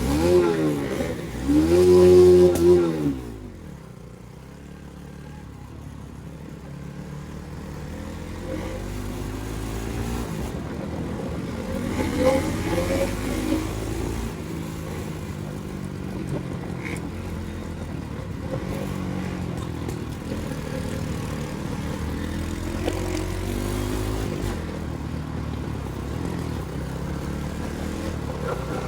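Single-cylinder 200 cc motorcycle engine revved hard near the start, its pitch rising and then falling. It then runs under way, its pitch repeatedly climbing and dropping as it accelerates and changes gear.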